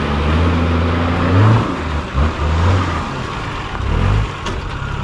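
Four-wheel drive's engine pulling under load off-road, holding steady at first, then revving in several short bursts as the throttle is worked, with its pitch rising and dropping.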